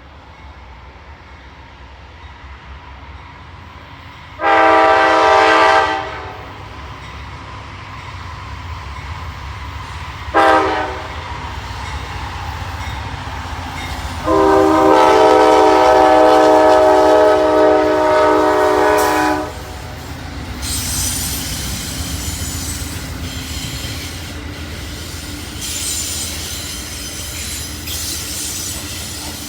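Diesel freight locomotive sounding its air horn over a low engine and rail rumble: a blast of about a second and a half, a short toot, then a long blast of about five seconds. After the horn, the train rolls by with high-pitched wheel squeal.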